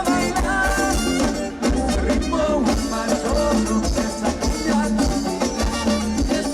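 Live Latin dance band playing: a steady percussion beat with bass under a melodic line.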